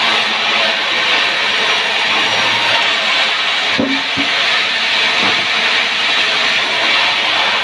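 Power saw cutting through wood: a steady, loud, hissing cutting noise that holds unbroken throughout.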